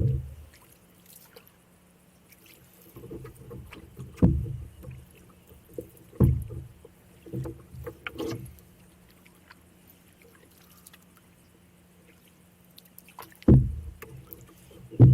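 Canoe being paddled: a handful of irregular paddle strokes, each a hollow low knock resonating through the hull. There is a pause of several seconds in the middle before two more strokes near the end.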